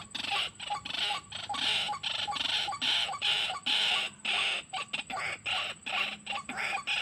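White-breasted waterhen calling: a long run of harsh, croaking "kruak" notes repeated about three times a second.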